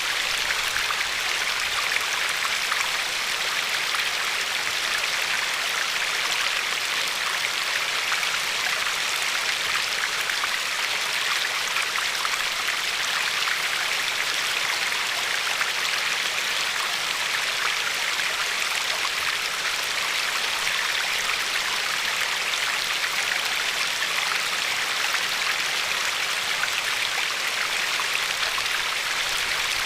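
Glacier-fed river flowing and lapping along a pebble shore: a steady, even rush of water dotted with many small splashes and trickles.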